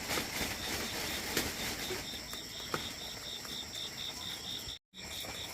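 Cricket chirping in a steady pulse, about four chirps a second, starting about two seconds in, over a low rumbling noise with a few faint knocks. The sound cuts out completely for a moment near the end.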